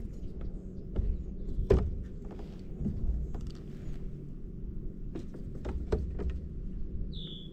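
Scattered knocks, clicks and creaks of fishing gear being handled in a kayak, over a low steady rumble, with a brief high chirp near the end.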